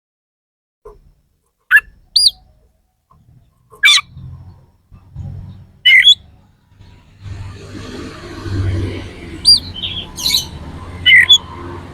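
Oriental magpie-robin (kacer) singing short, sharp, loud notes and arched whistles, separated by pauses, in the harsh 'shooting' style. A low hum runs under the second half.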